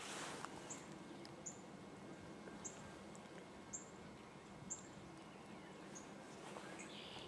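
A small bird repeating a short, high chip note about once a second, over a faint steady low background rumble.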